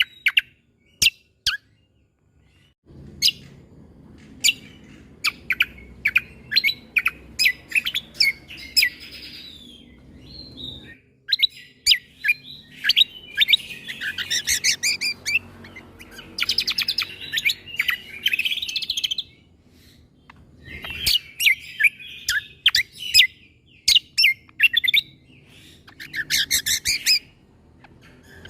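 Cucak kombo (kecial kombo) singing: bursts of sharp, explosive chip notes, the shot-like "tembakan" notes, mixed with rapid high trills, broken by short pauses.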